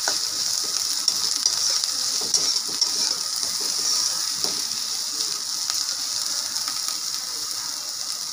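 Shredded cabbage and capsicum sizzling in hot oil in a steel kadai, a steady high hiss, with the light scrape and tap of a metal spatula stirring them.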